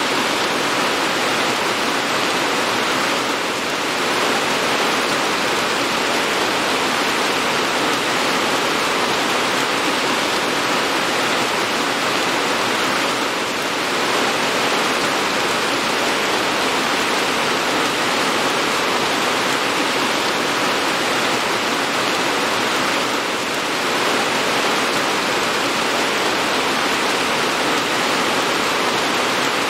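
Steady, dense rain, an even hiss of falling water with no single drops standing out.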